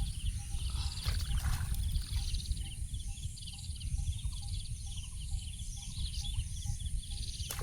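Outdoor ambience: many short, high chirping calls from small animals repeating over a steady low rumble, with a fainter, lower call repeating at an even pace about twice a second.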